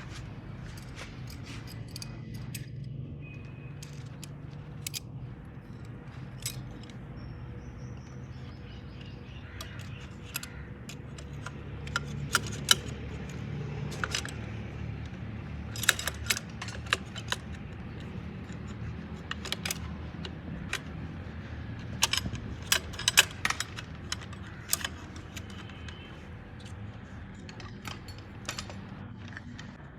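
Small metal parts and hand tools clinking and tapping against each other and on metal during hydraulic lift cylinder repair work, in scattered sharp clicks that come thickest in the middle, over a steady low hum.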